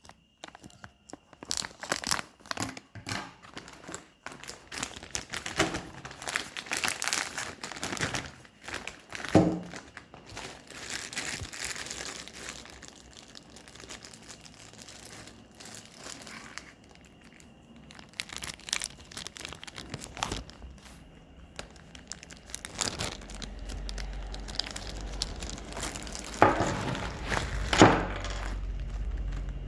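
Irregular crinkling, rustling and tearing of packaging, with small knocks, as the faucet filter attachment is handled. A low rumble comes in during the last few seconds.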